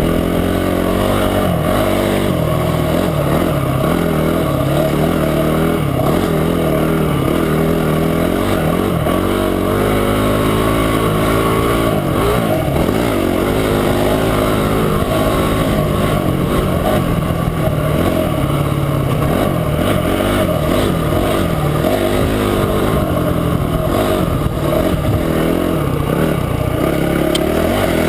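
Motorcycle engine running while riding, its revs rising and falling with the throttle throughout, over a steady rush of noise.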